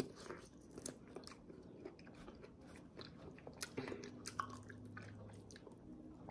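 Quiet, close mouth sounds of biting and chewing juicy pomelo flesh: small wet clicks and smacks scattered irregularly.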